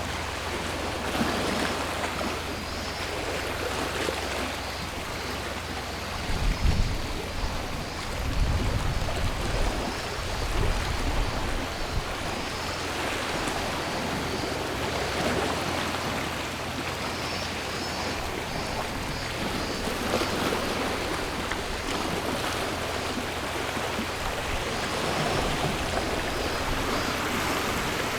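Sea waves washing onto a shore in slow, repeated swells, with cicadas buzzing faintly. A few deeper low thumps come about a quarter of the way in.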